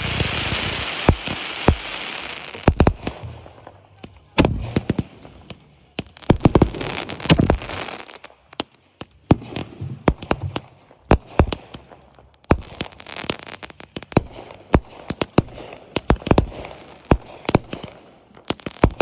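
Fireworks display: a dense crackling for the first few seconds, then a run of sharp bangs and deeper booms from bursting shells, coming irregularly several times a second at its busiest.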